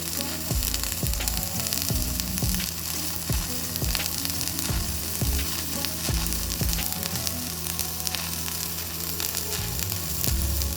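Stick (shielded metal arc) welding arc crackling steadily, with frequent sharp pops, as a vertical 3G weld is run.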